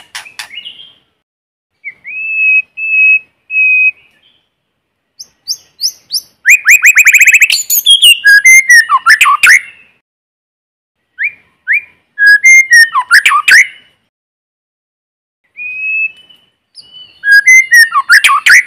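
White-rumped shama singing: phrases of clear held whistles and fast, varied runs of rising notes and trills, each lasting a few seconds, separated by silent gaps, with no background noise.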